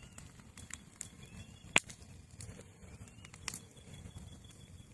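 Wood bonfire burning, crackling softly with a few sharp pops; the loudest pop comes a little under two seconds in.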